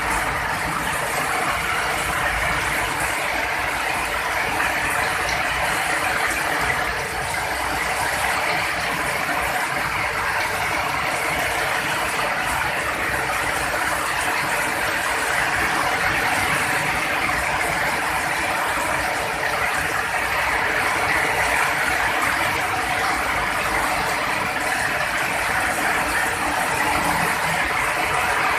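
Heavy rain falling steadily in a dense hiss, with no thunder.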